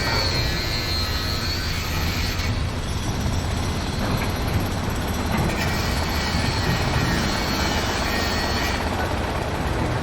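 Heavy construction machinery running steadily with a low engine rumble.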